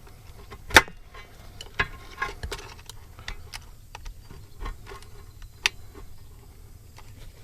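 Irregular sharp clicks and taps from hand work on a tractor tire's inner tube as the old valve stem is cut off with a utility knife, the loudest knock a little under a second in.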